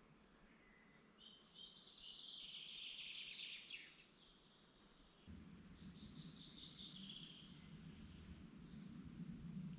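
Songbirds singing: a quick, high, twittering song phrase in the first few seconds, then more short high chirps. A faint low hum starts suddenly about halfway through and stays.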